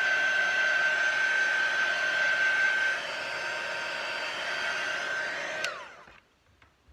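Craft heat tool blowing hot air to dry wet paint and ink on a paper page: a steady rushing blow with a high whine, which gets quieter about halfway through. Near the end it is switched off and the whine falls away as the fan spins down.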